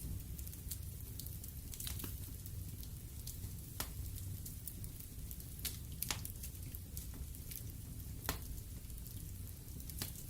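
Wood fire burning in a fireplace: a steady low rumble of flames with constant small crackles and a few sharp pops of burning wood, about every two seconds.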